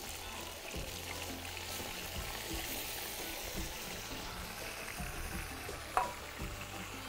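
Chicken and onions sizzling as they fry in a large pot, with chopped tomatoes tipped in at the start. About six seconds in, a plate is set down with a sharp clink.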